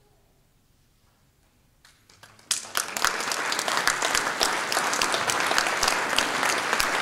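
Audience applause after the end of a piece: near silence for about two seconds, a few scattered claps, then full applause from about two and a half seconds in.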